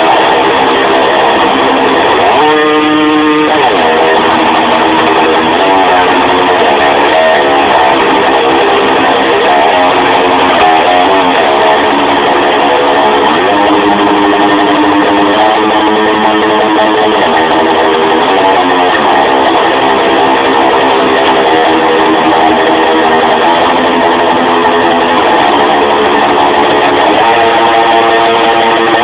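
Guitar music, electric guitar prominent, playing loud and continuous with changing notes.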